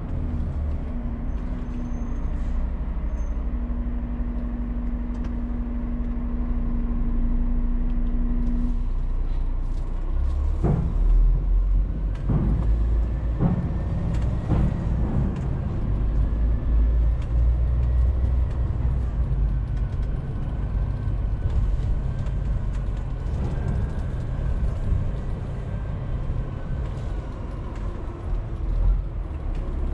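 Scania truck running, heard from the cab: a low engine rumble with a steady hum for the first several seconds. Then a few sharp knocks come about ten to fourteen seconds in, and a faint high whine slowly rises and falls through the rest.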